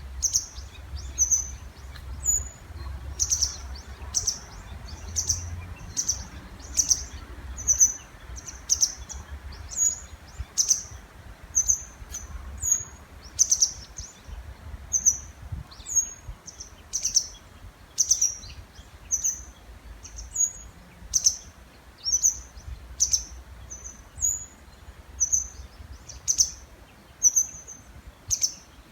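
Small songbirds calling, short high chirps repeated about twice a second, over a faint low, steady rush.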